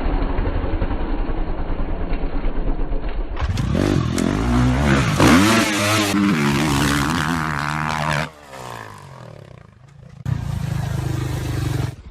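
Motocross bike engines revving up and down, heard across several short clips that cut in abruptly, with a quieter stretch a little past the middle.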